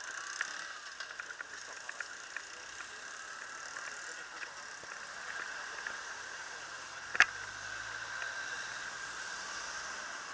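Steady outdoor background hiss with scattered light clicks. One sharp knock comes about seven seconds in, followed by a faint low rumble.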